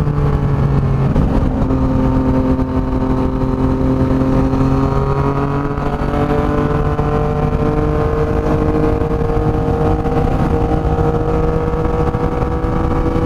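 Yamaha MT-09's three-cylinder engine running loud through an aftermarket exhaust as the bike rides along; the pitch dips just after the start and then climbs slowly and steadily as it gains speed.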